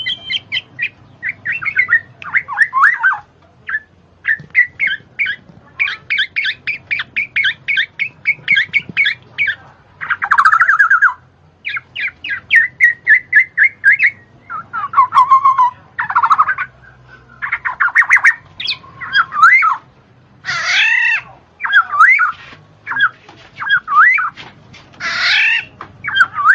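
A bird squawking and chattering in rapid runs of short notes, with louder swooping calls in the last few seconds.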